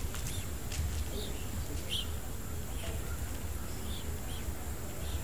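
Birds chirping: short calls every second or so, over a steady low rumble and a thin steady high whine.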